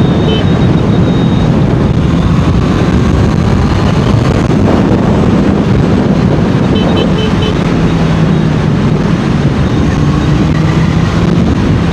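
Honda CBR650R's inline-four engine and exhaust running at a steady pitch while riding, under heavy wind noise on the microphone.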